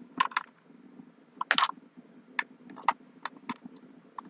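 Irregular light clicks and taps, about nine spread across a few seconds, from a small diecast toy truck being handled.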